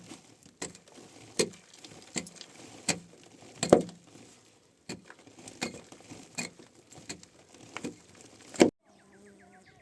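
Rhythmic blows of a hand tool striking, about one every three quarters of a second, cutting off abruptly near the end; a quieter stretch with faint chirps follows.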